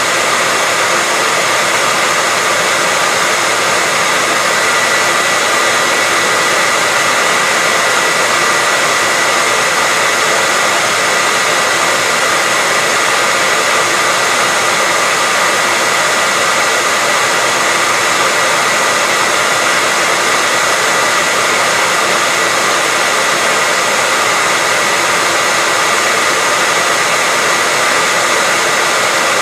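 Hair dryer running steadily: a constant airy rush of fan and airflow with a faint steady whine in it, unchanging throughout.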